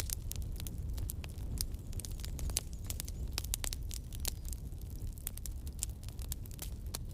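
Wood campfire burning: frequent sharp, irregular crackles and pops over a steady low rumble.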